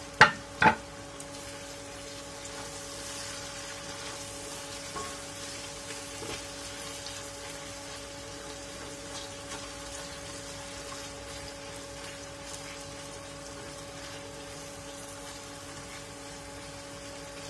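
Green chili sambal with sliced green tomatoes frying in a stainless steel wok: a steady sizzle while a spatula stirs it. Two sharp knocks of a utensil against the pan come within the first second, and a low steady hum runs underneath.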